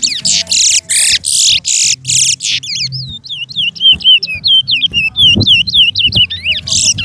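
Towa-towa finch singing a competition song. It opens with a run of loud, harsh high notes at about three a second, then goes into a fast twittering series of swooping whistled notes for about four seconds, and the harsh notes return near the end.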